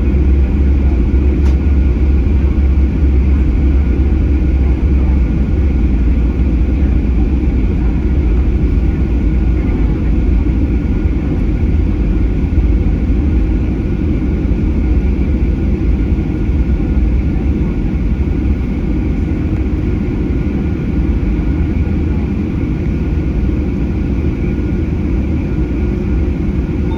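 Steady cabin noise inside a Boeing 737-800 with its CFM56 jet engines running, most likely at taxi power before takeoff: a deep, continuous rumble, heaviest in the first several seconds, with a faint high steady whine over it.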